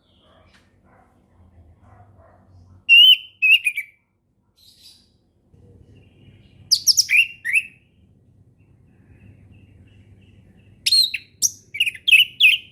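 Orange-headed thrush singing three short bursts of fluty, sliding whistled phrases, spaced about four seconds apart, with a faint low hum underneath.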